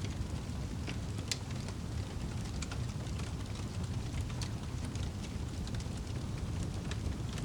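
Wood fire burning in a fireplace: a steady low rumble of flames with scattered sharp crackles and pops, a few every second.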